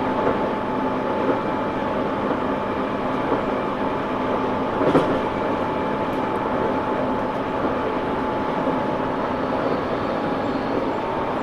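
Interior running sound of a Tobu 9000 series armature-chopper electric train car: a steady rumble of wheels on rail and motor noise at speed, with a faint steady whine and one sharp knock about five seconds in. This car was running with an unusual motor sound, which the recordist suspects came from a different traction motor fitted for a trial.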